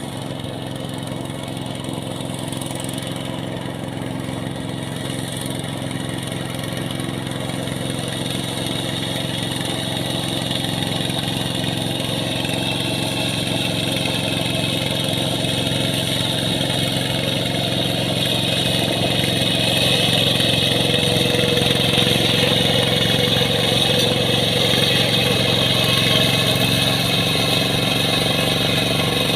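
Hand tractor engine running steadily while plowing a rice paddy, growing gradually louder.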